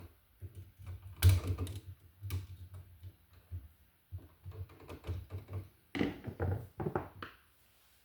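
Irregular small clicks, taps and scrapes of a wall receptacle, its wires and hand tools being handled while a wire is fitted to a terminal screw, with a louder knock about a second in and a quick run of clicks near the end.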